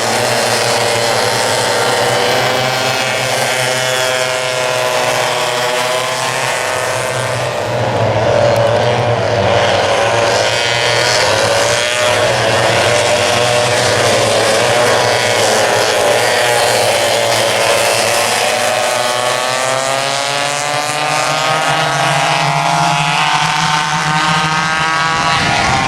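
Several vintage rear-engine go-kart engines racing together, their pitches rising and falling as the karts accelerate and slow, overlapping one another.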